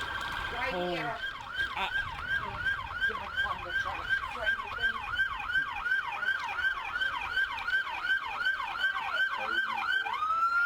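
Electronic emergency-vehicle siren: a steady tone, then from about a second in a fast yelp of about two and a half sweeps a second, rising back to a steady tone near the end.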